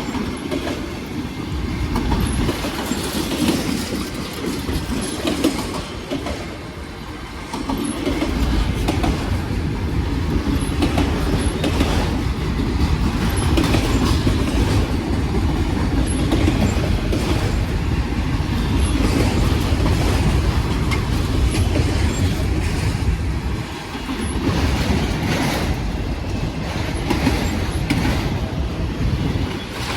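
Freight train cars of a long manifest and autorack train rolling past: a steady rumble of steel wheels on rail, with repeated clacks as the wheels cross rail joints and a brief dip in the noise twice.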